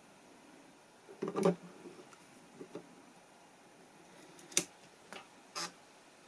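Tokina AT-X 100mm f/2.8 D macro lens making strange clicks and short rattles, an irregular handful: the loudest a rattling cluster about a second and a half in and a sharp click at about four and a half seconds, with a brief rattle near the end. The noise came from a faulty aperture mechanism, later repaired under warranty.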